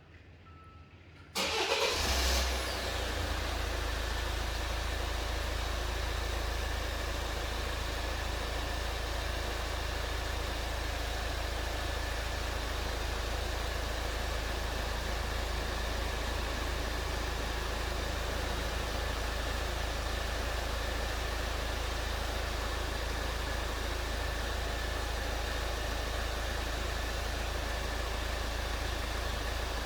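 Hyundai Santa Fe DM engine being remote-started: a few faint short beeps, then the engine cranks and catches about a second and a half in and settles into a steady idle.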